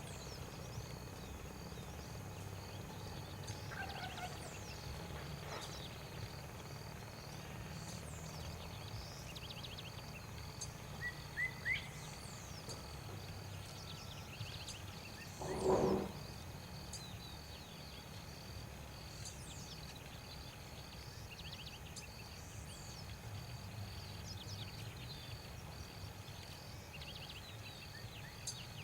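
Outdoor natural ambience: a steady pulsing insect trill under scattered high bird chirps, with one short, louder, lower-pitched animal call about halfway through.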